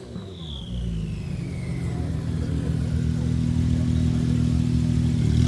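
Car engine running at a steady low speed, slowly growing louder.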